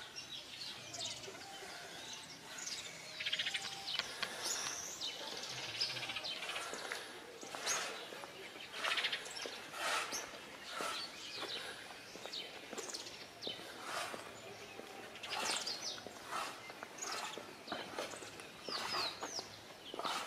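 Several birds chirping and calling together, a busy mix of short, overlapping chirps and quick sweeping whistles.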